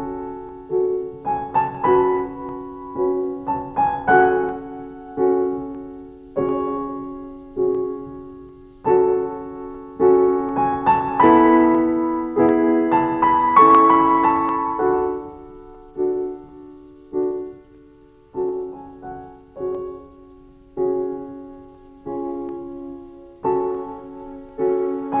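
Solo piano music: slow, quiet chords and single notes, each struck and left to fade, growing fuller and louder for a few seconds in the middle.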